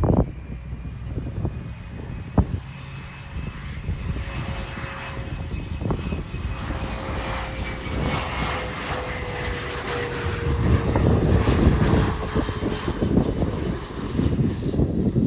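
Bombardier Challenger 604 business jet's twin turbofan engines passing, a steady jet noise with a whine that slowly falls in pitch and grows louder in the second half. Wind rumbles on the microphone, with a sharp knock a couple of seconds in.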